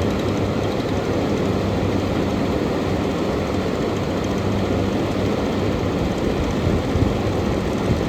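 Early-1990s Kenmore air conditioner running, its fan pushing a strong stream of air out the back in a steady rush with a low hum underneath.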